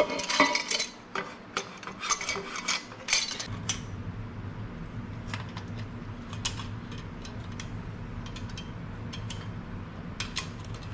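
Metal exhaust parts clinking and knocking against each other as they are handled and test-fitted, busiest in the first few seconds and sparser after. A steady low hum comes in about three and a half seconds in.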